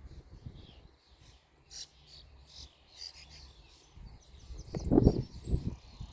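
Several small birds chirping with short, high calls. About five seconds in, low rumbling thumps come through, louder than the birds.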